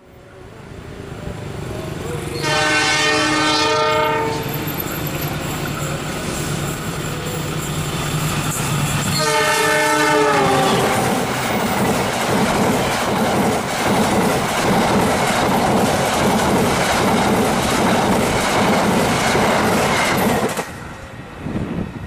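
Passenger train approaching at speed and sounding its horn twice, a blast of about a second and a half about 2.5 s in and another about 9 s in, the second dropping in pitch as it ends. Its stainless-steel coaches then rush past with wheels clattering on the rails, the noise cutting off suddenly near the end as the last coach clears.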